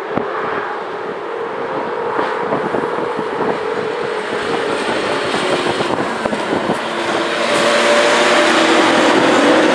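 EP07-class electric locomotive hauling passenger coaches along a station track, getting louder as it comes close and passes, with a steady whine running through the rumble of the wheels.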